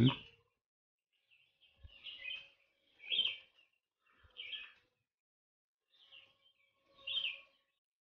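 Faint bird chirps in the background: five short chirps about a second or so apart. Two faint taps come from handling the small circuit board and its connectors.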